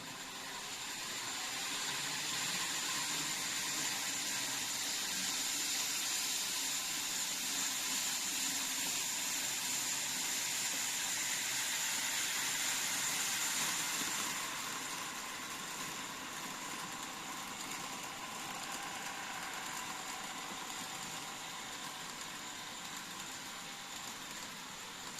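TOMIX N-gauge N700S 8000 series Kamome model train running on track: a steady whirring hiss of motor and wheels with a thin high whine. It swells over the first couple of seconds and drops a little about 14 seconds in.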